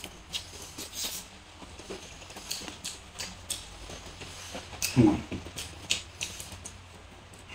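Close-up mouth sounds of a man eating noodles and fried egg by hand: wet chewing and lip-smacking clicks, with a louder short throaty mouth sound about five seconds in.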